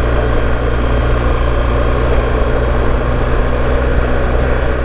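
BMW R1250GS boxer-twin engine running steadily under way, with tyre and wind noise from riding a gravel forest track.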